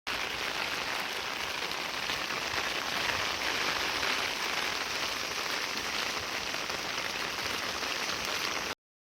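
Heavy rain falling steadily, an even hiss of many drops that starts abruptly and cuts off suddenly near the end.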